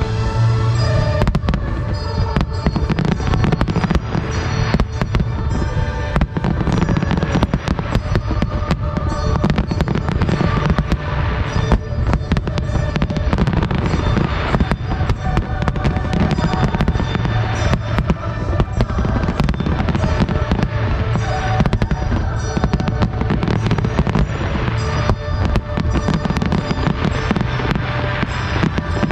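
Fireworks display: aerial shells bursting in quick succession throughout, with music playing under the bangs.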